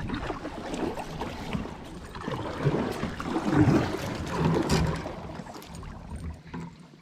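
Water sloshing and lapping around a kayak, with wind rumbling on the microphone.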